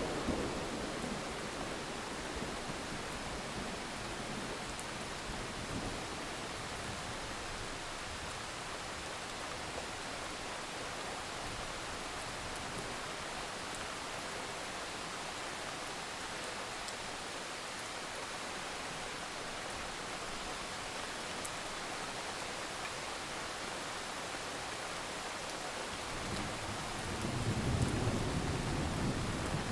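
Steady rain falling, an even hiss throughout. Low thunder rumbles fade out at the very start and roll in again about 26 seconds in, lasting to the end.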